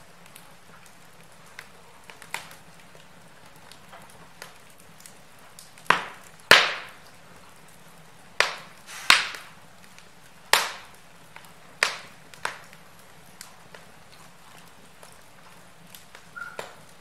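Wood fire crackling in a fireplace: irregular sharp pops and snaps over a low steady hiss, the loudest pops coming about six to seven seconds in. A brief faint whistle sounds near the end.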